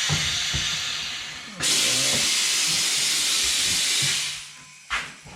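Loud hiss of escaping compressed air in two blasts: one dies away about a second and a half in, the next starts abruptly and fades out after about two and a half seconds. There are a few light knocks during the first blast and a short click near the end.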